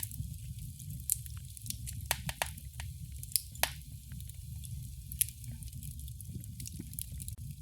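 Wood fire in a fireplace crackling, with irregular sharp pops and snaps, a few louder ones, over a low steady rumble of the burning fire.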